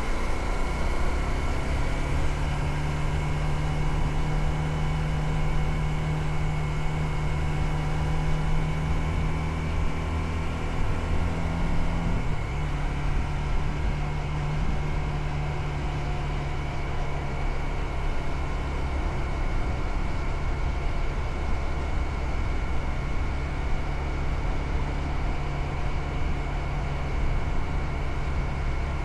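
Motorcycle engine running steadily while riding, its note shifting about twelve seconds in.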